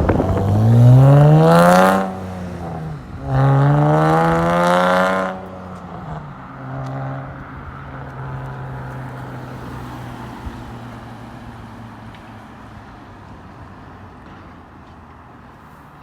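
Honda Accord 3.5-litre V6 with an aftermarket Magnaflow exhaust (J-pipe and two resonators) revved twice, the pitch climbing and dropping back each time. It then settles to a steady idle that slowly gets quieter.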